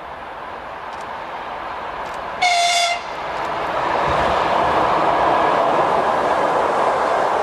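EP2K electric locomotive with a passenger train approaching, growing louder, and giving one short horn blast about two and a half seconds in; then the locomotive and coaches run past with a loud, steady rush of wheels on rail.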